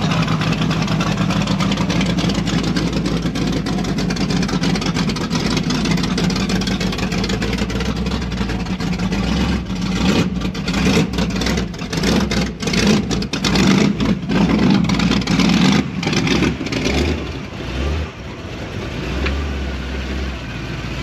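A car's engine running as the car drives in, a steady exhaust note that turns uneven, with short surges and dips, from about halfway through.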